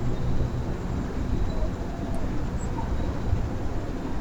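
Steady low outdoor rumble with a few faint, short bird chirps over it.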